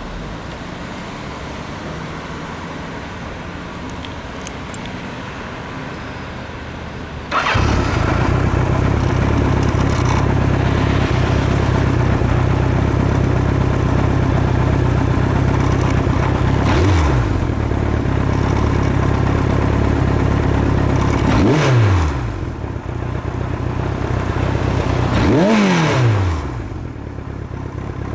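Kawasaki Z1A's air-cooled 903 cc inline-four engine starting up about seven seconds in and idling through its exhaust, then blipped three times, each rev rising and falling quickly, before settling back to idle.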